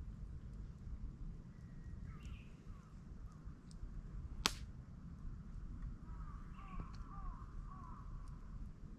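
Birds calling outdoors in short curved notes, a few around 2 seconds in and a longer run near the end, over a steady low background rumble. A single sharp click or snap comes midway and is the loudest sound.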